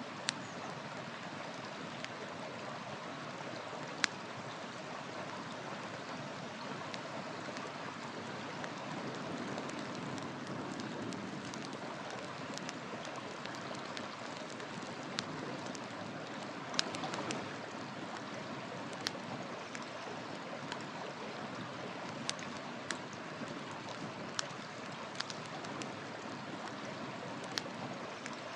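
A river rushing steadily, with the sharp pops and crackles of a wood fire scattered over it, the loudest about four seconds in and again a little past the middle.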